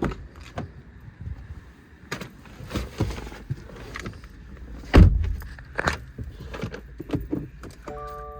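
Clicks and knocks of someone getting into a 2022 Subaru WRX, with a loud car-door thump about five seconds in. Near the end a repeating electronic warning chime from the car begins.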